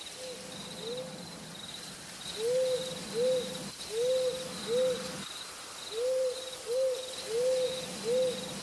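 Owl hooting: a series of short hoots, two faint ones at first, then louder ones in pairs, over a steady background of insects chirping.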